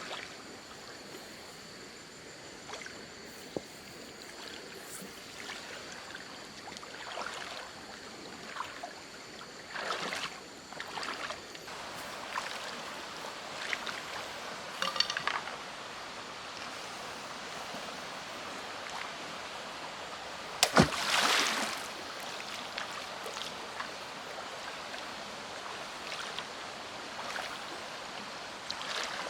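Steady rain hiss with scattered clicks, knocks and rustles of handling camp gear. A sharp knock comes about 21 s in, followed by a brief rustle. A faint, steady high whine stops about halfway through.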